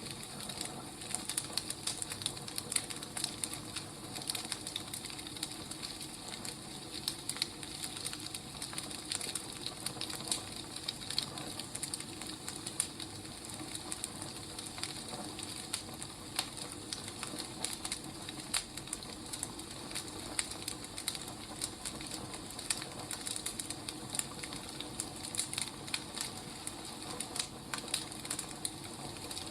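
Burning firewood crackling: irregular small pops and snaps over a steady hiss.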